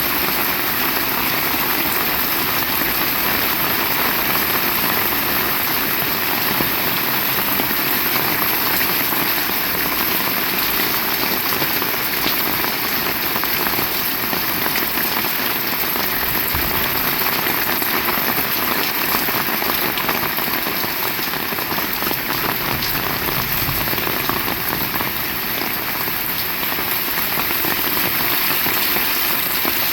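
Heavy rain falling steadily: a dense, even hiss of drops on surfaces, with no change in strength.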